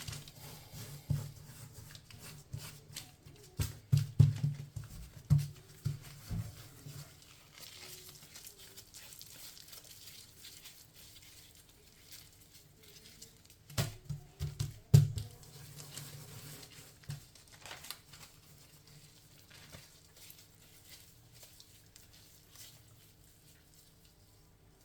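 Scattered knocks and thuds of kitchen items being handled and set down, with some crinkling, in clusters a few seconds in and again about halfway through.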